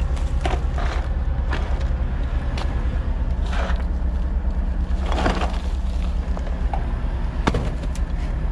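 Rocks and dirt being dropped and shovelled onto a trailer tarp, short scrapes and clatters every second or so over a steady low rumble.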